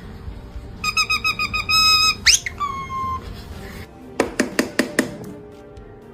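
Parrot whistling: a quick run of repeated whistled notes, then one whistle sweeping steeply upward and a short falling whistle. About four seconds in come a handful of sharp clicks in quick succession.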